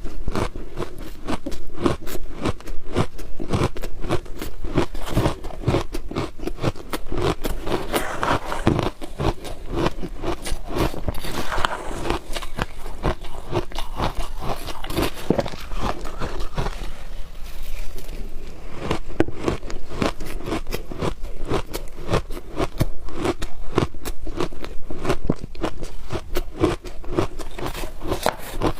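Close-up crunching of frozen ice as it is bitten and chewed, a dense run of sharp crunches with a short lull a little past the middle.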